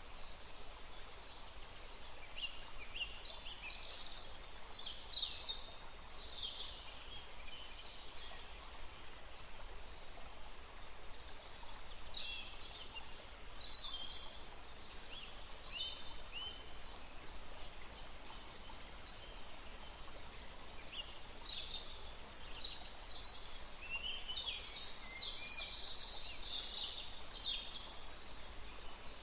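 Songbirds chirping and singing in quick, high phrases, in three bouts about 2, 12 and 21 seconds in, over a steady background hiss.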